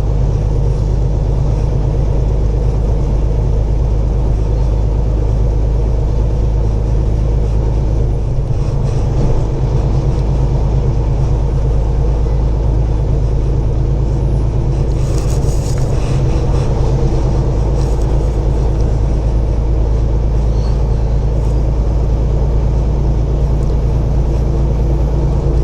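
Semi truck's diesel engine and road noise heard from inside the cab, a steady low drone that holds unchanged throughout.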